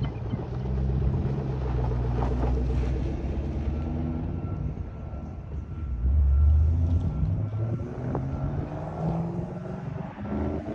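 2012 Camaro SS's 6.2-litre V8 running through a muffler-deleted exhaust, with a louder, deeper rise in exhaust note about six seconds in.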